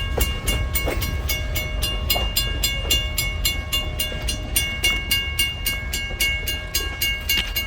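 Railroad grade-crossing bell ringing fast and evenly, about four or five strokes a second, over the low rumble of a passing train. The bell stops abruptly near the end.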